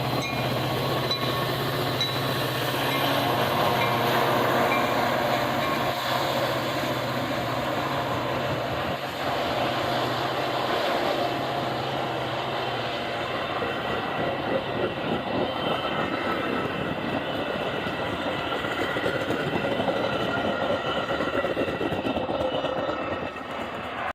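A train rolling past on the tracks, with a steady low engine hum that fades out about halfway through while the rail noise and wheel clatter carry on.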